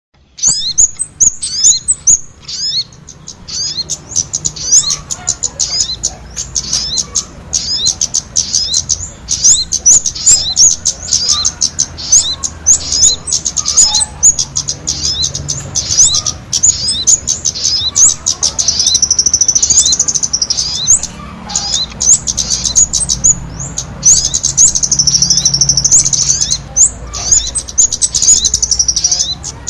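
Bird lure call of sogon combined with kemade: a rapid, busy string of high, sharp chirps that sweep downward, with longer unbroken warbling trills twice in the second half.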